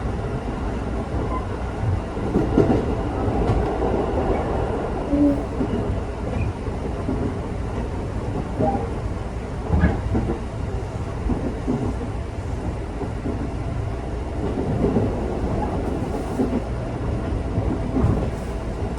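Electric local train running, heard from inside the passenger car: a steady low rumble with occasional knocks as the wheels pass rail joints.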